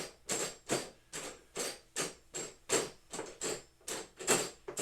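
Repeated punches landing on a punching bag in a steady run, about three hits a second.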